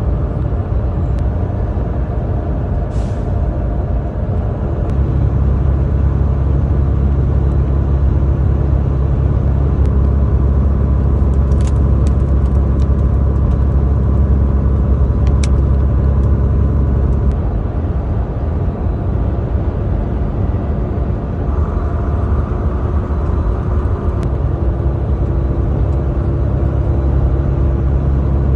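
Semi-truck engine and road noise heard from inside the cab: a steady low rumble that gets louder from about five seconds in and eases back down around seventeen seconds. A few sharp clicks come through partway along.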